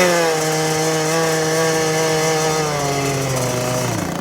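Small kick-started dirt bike engine running under throttle as the bike pulls away. Its pitch climbs right at the start, holds steady, then falls away near the end.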